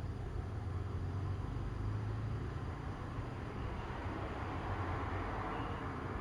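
Steady outdoor background noise: a low rumble under a rushing hiss that swells somewhat past the middle, with a few faint short high notes near the end.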